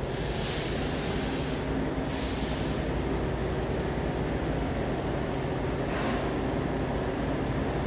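Steady low diesel drone of a standing passenger train, with compressed air from the air brakes hissing three times: twice in the first three seconds and once more about six seconds in.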